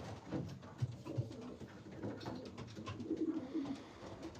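Racing pigeons cooing softly, several birds murmuring over one another, with a few faint clicks among them.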